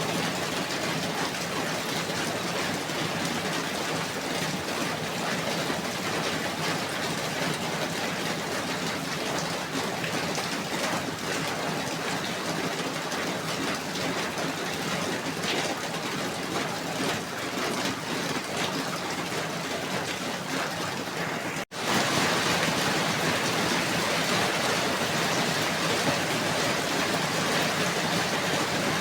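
Steady rain falling, an even hiss of many drops. About three-quarters of the way through it cuts out for an instant and comes back slightly louder and brighter, like a splice between two recordings.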